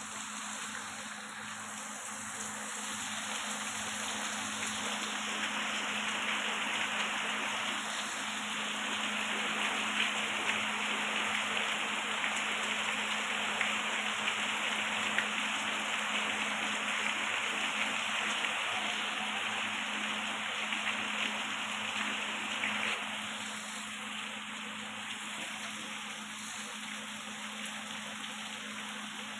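Steady rushing water noise with a low steady hum beneath it; it swells a little after a few seconds and eases again near the end.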